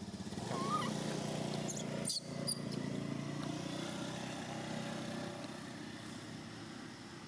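A small engine running steadily, loudest about a second in and slowly fading. A short high squeak comes under a second in, and a sharp click about two seconds in.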